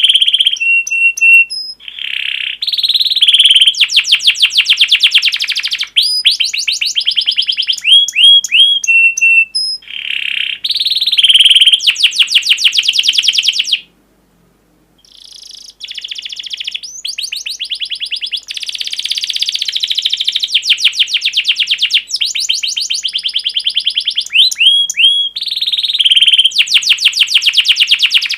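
Recorded songbird song played as a training track for caged birds: fast rattling trills and sharp, high chirps in repeated phrases. It breaks off for about a second midway, then comes back.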